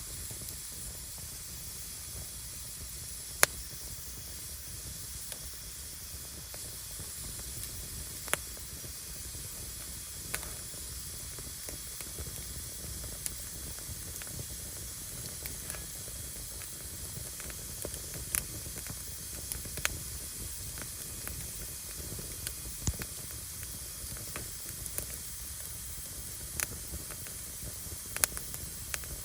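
Firewood burning: a steady hiss with irregular sharp pops and crackles, the loudest pop about three seconds in.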